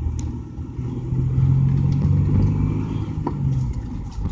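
Car engine and road noise heard from inside the cabin while driving: a low, steady drone.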